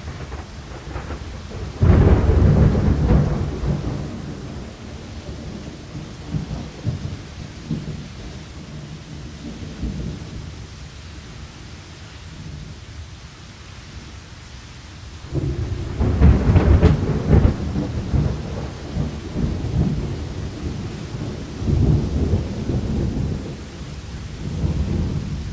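Thunderstorm: steady rain with rolling thunder. A loud, low, crackling peal breaks about two seconds in and rumbles away, a second swells up about halfway through, and lesser rumbles follow near the end.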